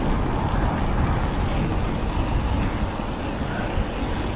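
Steady wind rumble on the microphone and road noise while riding a bicycle along a town street.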